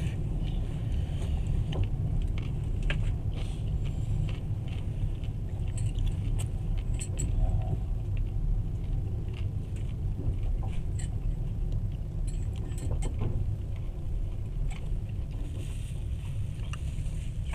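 Running noise inside a moving passenger train carriage: a steady low rumble from the wheels on the track, with scattered light rattles and clicks.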